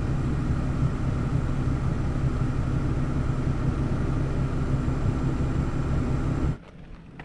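A vehicle engine idling with a steady low rumble, cut off abruptly about six and a half seconds in, leaving faint outdoor sound with a few light clicks.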